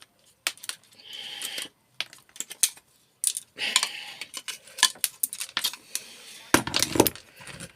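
Metal and plastic parts of a scrapped microwave clicking, rattling and scraping as they are pulled apart by hand, with a louder scrape near the end.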